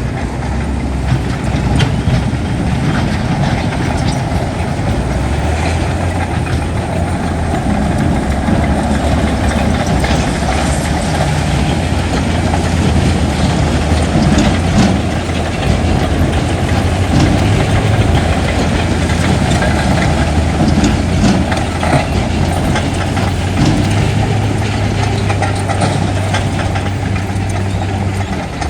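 Heavy diesel engine of earthmoving machinery running steadily at a low, even drone, with light clanking and rattling over it.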